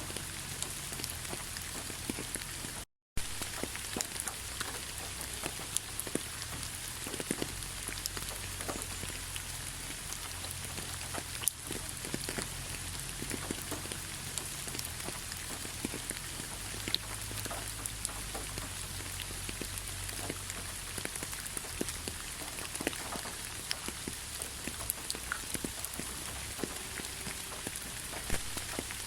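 Steady rain falling, with many single raindrops tapping sharply through the even hiss. The sound cuts out completely for a moment about three seconds in.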